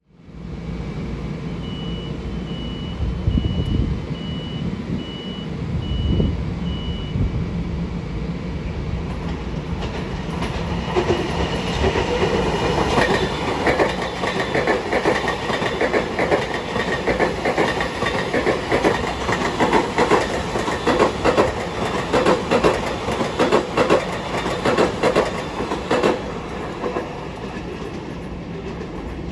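Long Island Rail Road commuter train passing on the tracks, a low rumble at first. About ten seconds in it gives way to a long run of fast wheel clicks over the rail joints, which eases off near the end. Early on a row of about eight short high beeps sounds.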